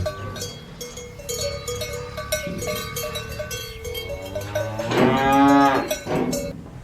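Cowbells clanking irregularly as cattle move, with a cow mooing once about five seconds in, the loudest sound.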